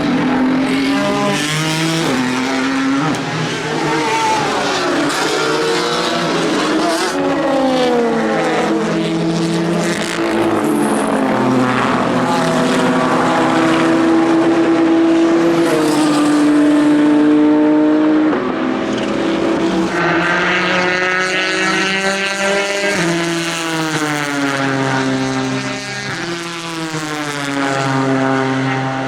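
Several race cars running at high revs past the microphone one after another, their engine notes rising and falling in pitch as they approach, pass and shift gear. About two thirds of the way through, a new high, sustained engine note takes over.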